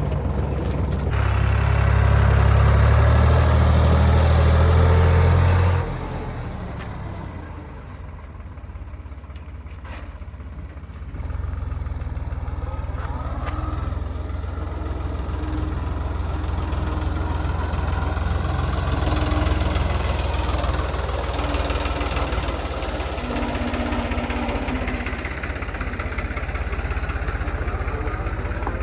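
Diesel engine of heavy farm or construction machinery running: loud for the first few seconds, dropping suddenly about six seconds in, then picking up again about eleven seconds in and running steadily.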